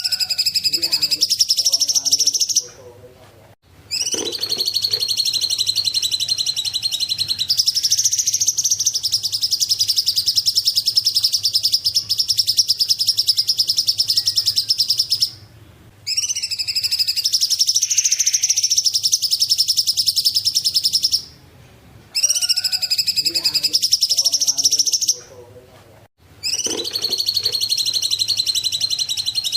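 Cungkok bird singing: long bouts of very fast, high-pitched chattering trills, each running several seconds and broken by short pauses.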